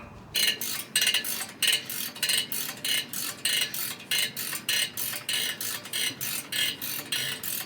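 Hand socket ratchet wrench clicking in quick, even strokes, about three or four a second, as a bolt is worked loose by hand.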